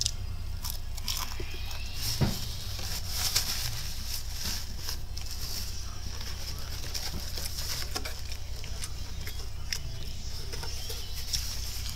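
Close-up chewing of crunchy fried chicken tenders: scattered mouth clicks and crunches, the loudest about two seconds and three and a half seconds in, over a steady low hum.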